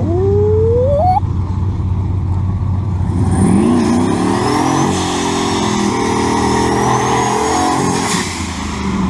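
Turbocharged 5.2 L V8 pickup engine: a brief rev that climbs in pitch, then from about three seconds in a hard run at high revs with a high whine rising alongside, dropping away near the end.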